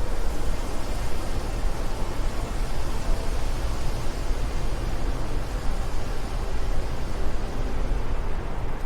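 Steady wind with a deep rumble under an even hiss.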